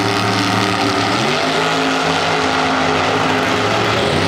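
Drag racing car engine running at steady high revs, its pitch stepping up about a second in and dropping near the end.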